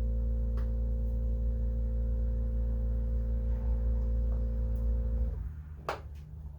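Steady electrical hum: a low buzz with higher overtones, held level, that stops suddenly a little over five seconds in. A sharp click follows shortly after.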